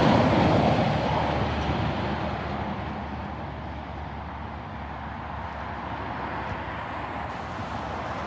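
A truck driving past, loudest at the start and fading away over the first few seconds, leaving a steady road noise.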